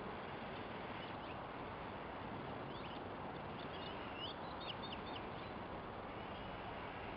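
Small birds chirping faintly, with a quick run of short calls in the middle, over a steady hiss.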